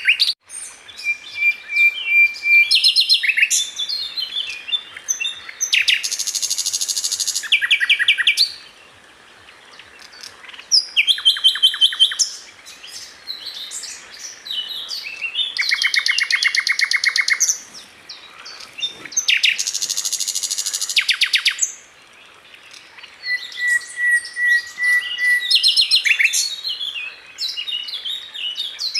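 Sikatan londo flycatcher singing a long, varied song. Quick chirping phrases alternate with rapid buzzy rattling trills, and there are two steady held whistles, one near the start and one in the second half, with short pauses between the phrases.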